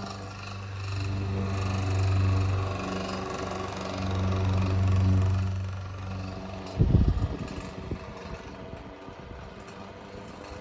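Single-speed 8-inch Montgomery Ward table fan running at full speed, its motor hum and rattle swelling louder twice. About seven seconds in comes a brief loud clatter of knocks, after which it runs more quietly.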